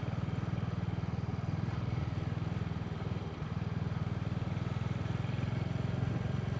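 Royal Enfield motorcycle engine running steadily at an easy cruising pace, heard from the rider's seat as a rapid, even pulsing low exhaust note. The level dips briefly about three seconds in.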